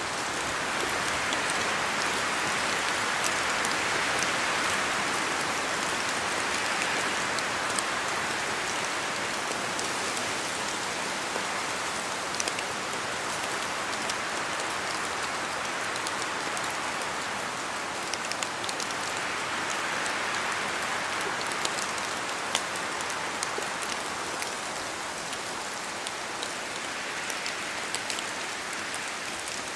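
Steady rain falling through forest trees, with individual drops ticking sharply on top. The rush swells and eases slowly a few times.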